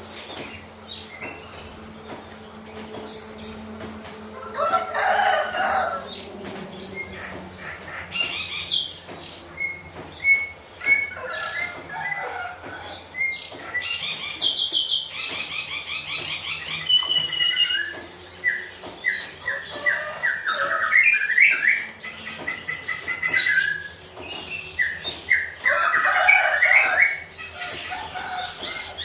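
Oriental magpie-robin (kacer) chirping and calling in bursts of short, repeated notes, with wing flapping as it bathes.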